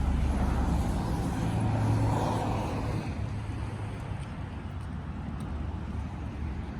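A car passing on the street: road noise that swells about two seconds in and then fades, over a low rumble.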